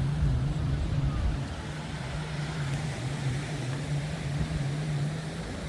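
An engine droning steadily at a low pitch, the pitch wavering slightly. A low rumble underneath fades out about a second and a half in.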